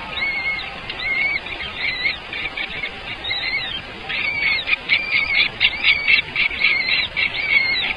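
Birds calling: a string of short, high, repeated calls that come faster and closer together from about halfway through.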